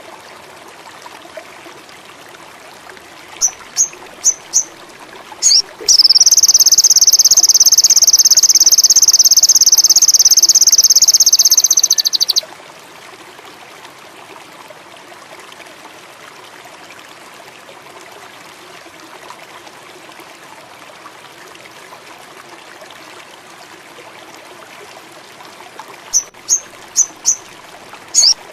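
Sogon bird song: several short, sharp, very high chips, then a loud, rapid, high trill held evenly for about six seconds that stops abruptly; near the end a new run of chips leads straight into the next trill. Underneath runs a steady bed of flowing stream water and insects.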